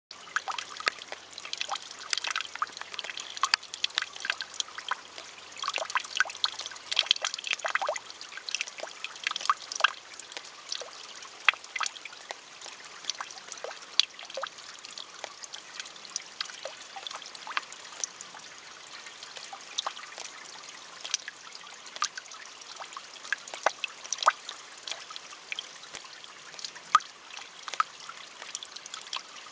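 Rain falling on wet leaves of low plants: many separate drops tapping the leaves over a soft hiss, thick in the first ten seconds or so, then thinning to scattered drops.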